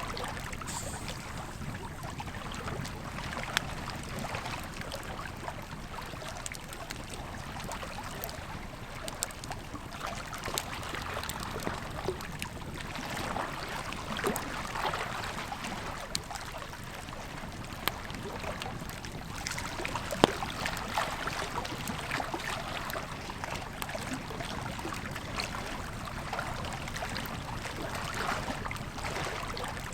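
Campfire crackling, with scattered sharp pops, the loudest about two-thirds of the way through, over the steady rush of a river.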